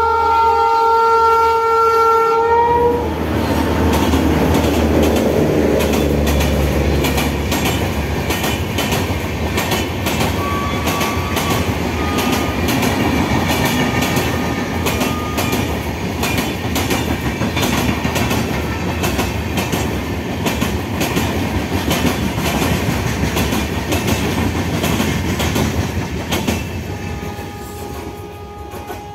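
An Indian Railways electric locomotive sounds a loud multi-tone horn for the first three seconds or so as it approaches. Then the train runs past: a heavy rumble and a rapid clickety-clack of coach wheels over the rail joints, fading in the last few seconds, with a faint horn near the end.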